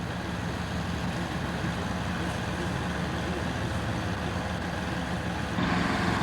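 Engine of a snow-clearing machine running steadily, growing louder and brighter about five and a half seconds in.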